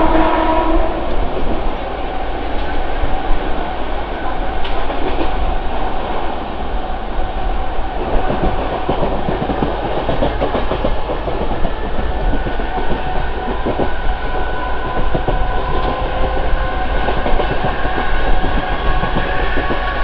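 Mumbai suburban local electric train running along the track, heard from its open doorway: a steady rumble and clatter of wheels on rails. A horn sounds briefly at the start, and faint steady whining tones join in over the second half.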